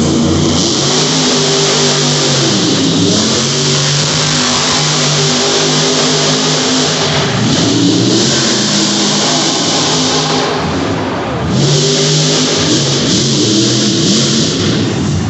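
Monster truck engines revving hard, the pitch rising and falling again and again, with a loud hiss over them. There is a brief dip about eleven seconds in.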